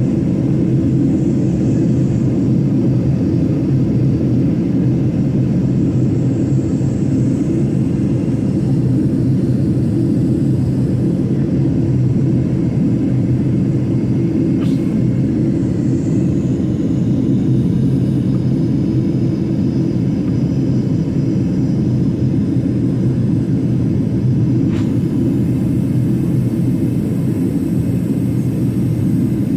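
Steady low rumble of a jet airliner's engines, holding an even level throughout.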